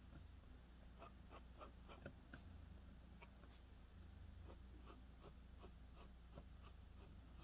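Faint pencil strokes on drawing paper: short, light shading strokes, about three a second, as graphite is laid down along the direction of the hair.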